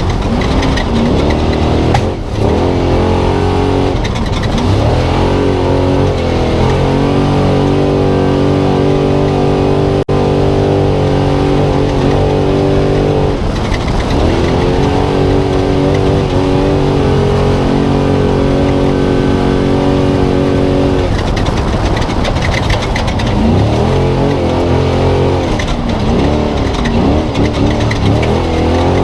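Spec Trophy Truck's engine heard from inside the cab, racing at speed. The revs hold steady for long stretches and drop briefly a couple of seconds in, about halfway through and about two-thirds of the way through, then rise and fall repeatedly near the end as the driver works the throttle over the terrain. A steady rush of wind and road noise runs underneath.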